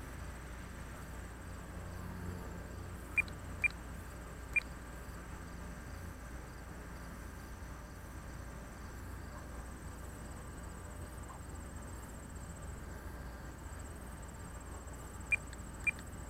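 Short, high, single-pitched beeps from the RC transmitter's trim buttons as the plane is trimmed: three quick ones a few seconds in and two more near the end. Underneath, a faint steady low rumble and a thin, steady high whine.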